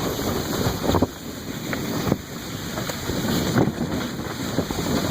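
Wind buffeting the microphone over the steady rushing scrape of a plastic IBC-tote sled sliding across snow, with a couple of bumps or knocks about 1 and 2 seconds in.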